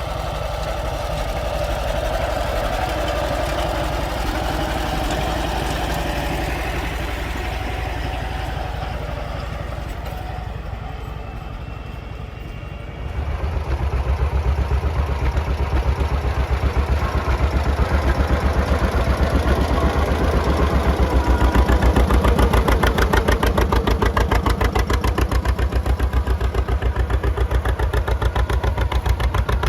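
John Deere two-cylinder tractor engines running. About 13 seconds in, a cut brings a louder engine with a quick, even pulsing beat.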